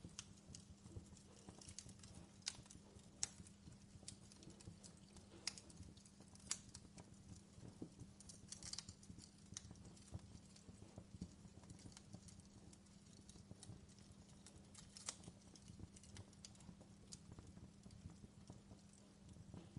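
Fireplace fire crackling faintly, with irregular sharp pops and snaps over a steady low hum.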